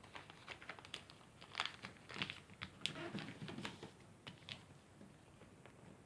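Junk-mail paper being folded and creased by hand: irregular rustles and crackles, busiest in the middle.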